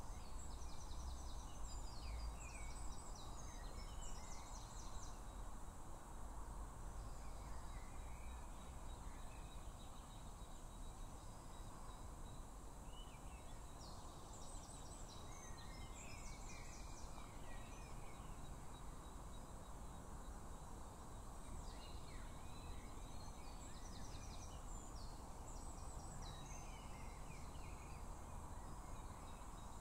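Small birds singing in short bursts of quick, high, repeated notes, three spells of song over a steady low background rumble.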